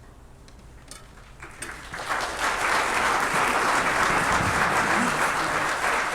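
Audience applause: after a quiet start, clapping begins about a second and a half in, swells quickly and holds steady.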